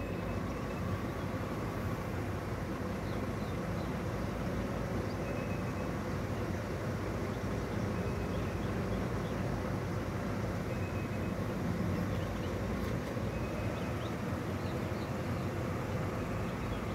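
Steady low hum and rumble of a car's engine, heard from inside the cabin.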